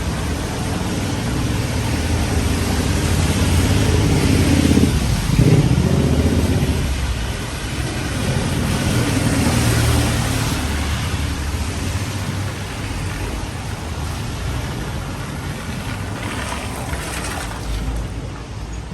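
A motor vehicle's engine running close by on a wet street, loudest about five seconds in and then fading, over a steady hiss of rain and wet road.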